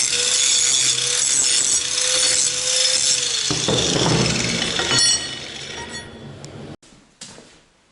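A power tool with a steady motor whine cutting or grinding metal. It stops about three and a half seconds in with a brief rough burst that fades away, followed by a few light metal clinks.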